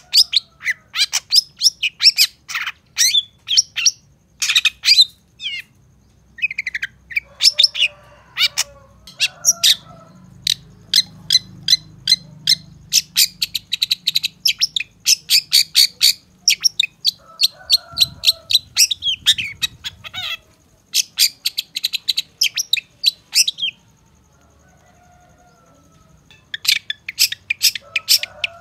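Long-tailed shrike (cendet) singing a fast, loud song of sharp, high chirping notes packed into rapid runs, with some harsher, lower notes mixed in. The song breaks off for a couple of seconds near the end, then resumes.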